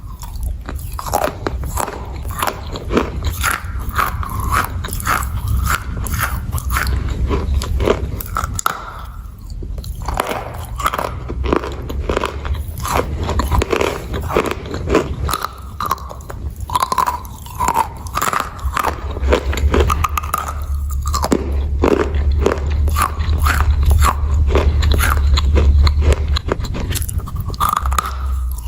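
Close-up biting and chewing of hard, crunchy chunks of blue Ural clay: a dense run of sharp, irregular crunches with brief pauses, over a steady low hum.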